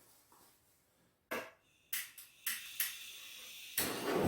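A lighter clicked several times, then a steady hiss starting near the end as it catches to light the wood stove's kindling and fire starter.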